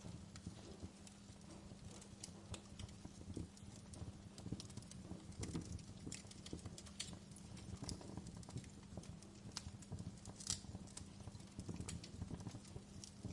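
Wood fire burning in a fireplace, crackling with irregular sharp pops over a low steady rumble of the flames. One louder pop comes about ten and a half seconds in.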